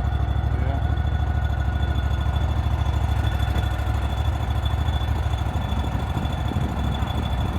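Vehicle engine running steadily with an even low throb, and a faint steady high whine above it.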